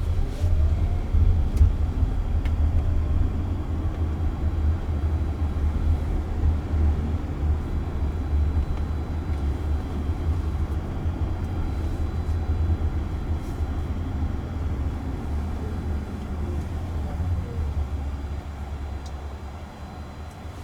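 Road and tyre rumble heard inside the cabin of a Waymo robotaxi as it drives, a steady deep drone with a faint whine that glides up and down with speed. It swells about a second in and eases off near the end.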